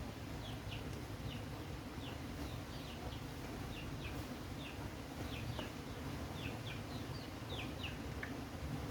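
Birds chirping: many short, high, falling chirps at irregular intervals, over a low steady rumble.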